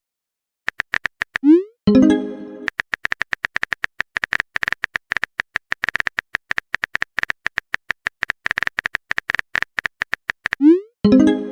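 Chat-app sound effects: long runs of rapid, irregular typing clicks, with a short rising electronic message tone about two seconds in and again near the end.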